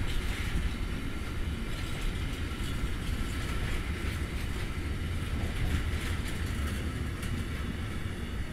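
Intermodal freight wagons carrying tank containers rolling slowly past as a long train pulls away, a steady low rumble of wheels on the rails with faint higher squeals and a few light clicks.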